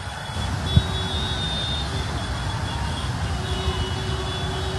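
Road traffic: a steady low rumble of vehicle engines, with faint intermittent tones over it and a single brief knock about a second in.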